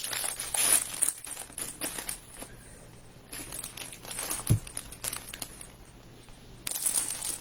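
Plastic snack packet crinkling and rustling in spurts as it is handled and opened, with one short knock about halfway through.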